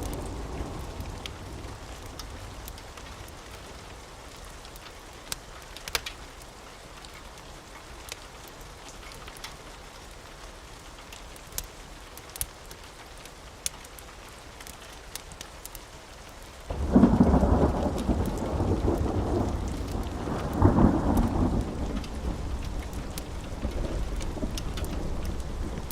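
Steady rain with a few sharp crackles from a wood fire. About 17 seconds in, a loud clap of thunder breaks in and rumbles, swells again a few seconds later, then rolls on.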